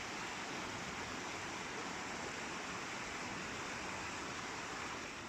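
Rushing water of a clear mountain river: a steady, even rush that drops away at the very end.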